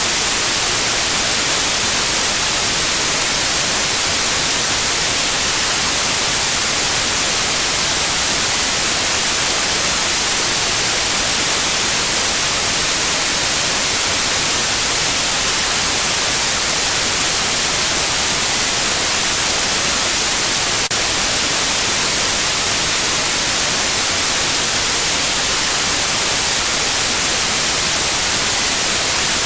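Steady synthetic white-noise hiss with a continuous high-pitched pure tone at about 9645 Hz, a tinnitus sound-therapy signal. The tone drops out briefly twice: about nine seconds in and just before the end.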